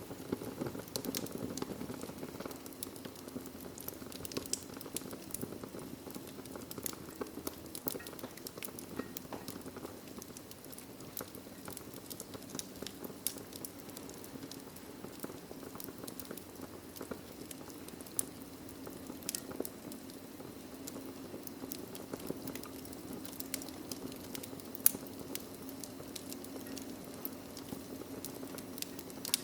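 Wood fire in a fireplace crackling: a steady low rush of flame dotted with frequent small snaps and pops, one sharper pop late on.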